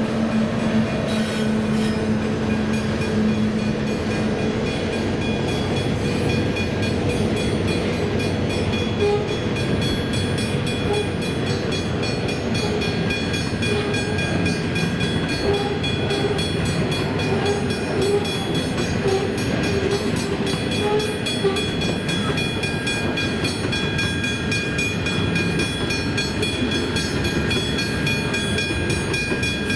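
Loaded coal hopper wagons of a freight train rolling past, a dense steady rumble and clatter of wheels on rail. The engine of the train's last diesel locomotive is heard only in the first few seconds. Steady high ringing from the level crossing's warning bell runs throughout.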